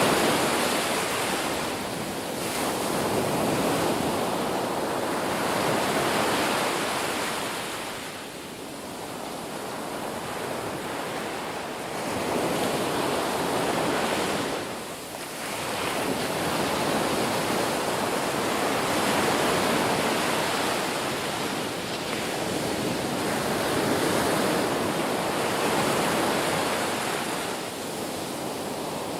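Ocean surf: waves breaking and washing ashore in a continuous rush that swells and ebbs every few seconds, with brief lulls about a quarter and half way through.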